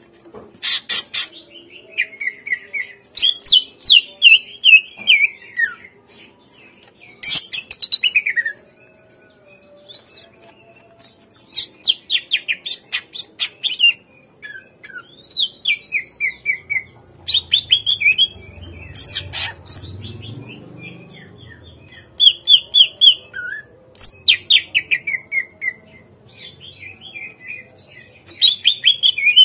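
Green leafbird (cucak ijo) song played as a lure: loud bursts of quick, falling chattering phrases with short pauses between them, repeated over and over.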